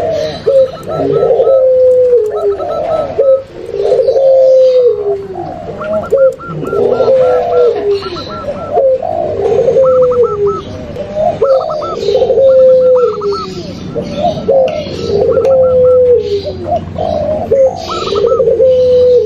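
A dense mix of dove calls, zebra dove, spotted dove and puter pelung together, played as a luring track. Deep coos falling in pitch repeat about every two seconds, under a faster, higher stuttering trill.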